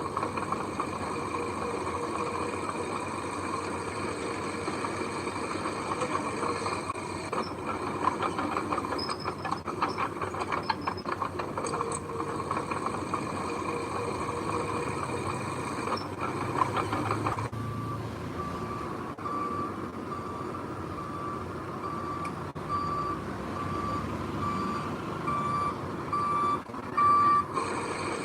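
Heavy construction vehicle running with some clatter, then its reversing alarm starts about two-thirds of the way in: short beeps about once a second, getting louder near the end.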